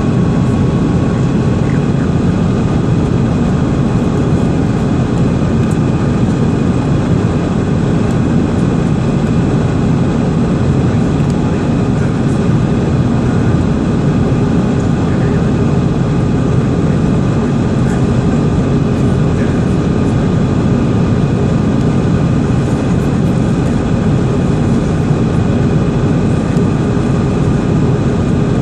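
Jet airliner engines and rushing air heard from inside the passenger cabin during takeoff and climb. The noise is loud and steady, with a few faint thin tones above it and no change in level.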